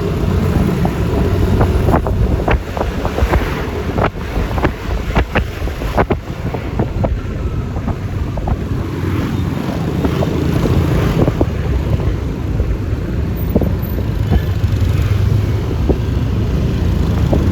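Wind buffeting the microphone over road and engine noise from a Yamaha Lexi LX 155 scooter riding at speed, with a run of short clicks in the first few seconds.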